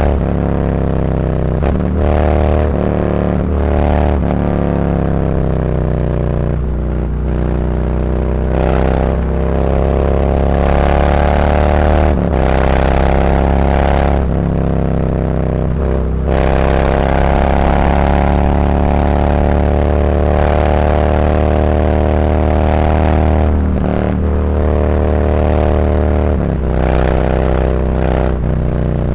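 Harley-Davidson Road Glide's V-twin running through SuperTrapp 4-inch FatShots slip-on mufflers with internal discs, pulling away and accelerating through the gears: the exhaust note climbs in pitch for several seconds at a time, dipping briefly at each gear change, with short quick shifts near the start and end.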